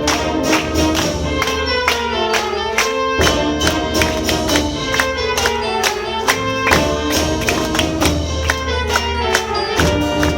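Wind band playing a lively piece, sustained brass and woodwind chords over percussion striking a quick, steady beat.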